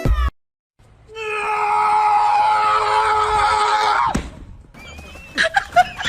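A loud, long scream-like cry held for about three seconds on a steady pitch, then dropping away suddenly. A few clicks and a faint warbling, chirp-like tone follow near the end.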